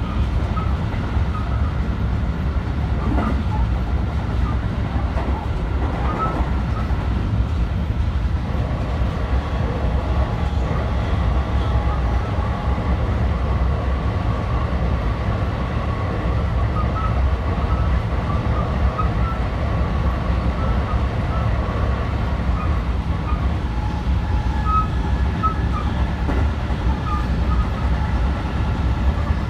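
Running noise heard inside a JR West 223 series 2000-subseries electric train car travelling at speed: a steady low rumble of the wheels on the rails, with the beat of a flat spot worn on a wheel.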